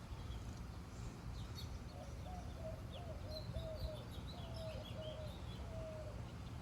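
Gusty wind rumbling on the microphone, with birds calling: quick high chirps and a run of short, lower repeated notes through the middle.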